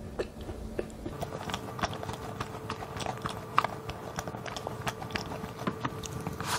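Close-miked chewing of a mammoth roll, soft bread filled with buttercream, red bean paste and nuts: many small wet mouth clicks and soft crunches, with a fresh bite taken near the end.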